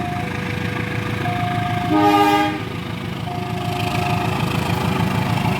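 Diesel locomotive engine idling with a steady low rumble, with a short horn blast about two seconds in that is the loudest moment. A steady high tone comes and goes about every two seconds.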